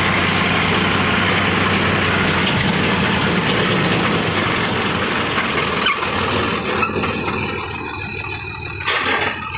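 Sonalika DI-47 RX tractor's diesel engine running, a steady drone at first that grows rougher. About seven seconds in the sound drops and changes, with a short knock near the end.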